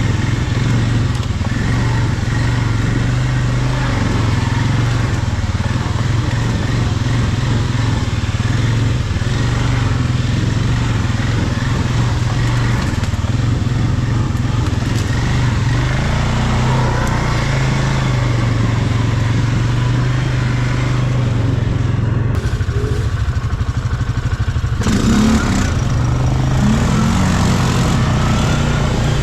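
ATV engine running under steady throttle while riding, with a steady low drone throughout.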